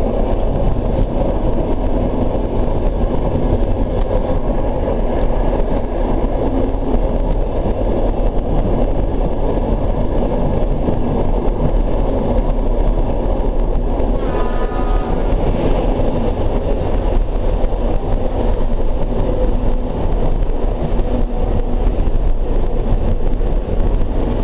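Suburban train running steadily, a continuous rumble of wheels on track heard from inside the carriage. About two-thirds of the way through comes a brief pitched tone, lasting about a second.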